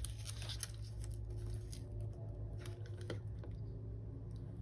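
Faint handling of paper and sticker sheets: light rustles and a few soft taps and clicks, over a steady low hum.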